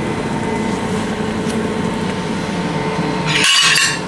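Steady whirring hum of a kitchen appliance fan. Near the end comes a brief, louder burst of rustling hiss.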